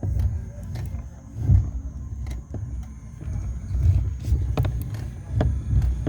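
Chevrolet Celta's steering box giving sharp cracking clicks as the steering wheel is turned, over the low running of the car. The noise is a fault: a mechanic put it down to the steering rack, another to dirty water in a bearing after driving through a flooded road.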